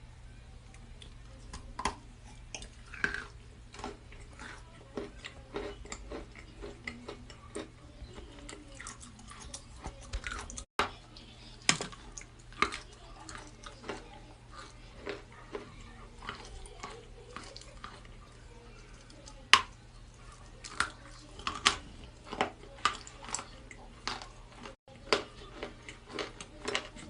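Dry natural chalk being bitten and chewed close to the microphone: irregular crisp crunches, the sharpest bites coming about 12 and 20 seconds in.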